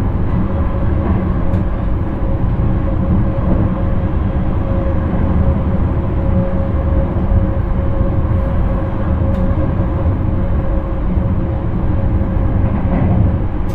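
Intercity train running steadily, heard from the driver's cab: a constant heavy rumble of wheels on track with a steady whine running through it and two faint ticks.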